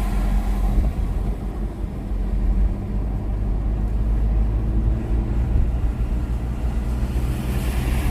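Car cabin noise while driving: a steady low rumble of the engine and the tyres on the road.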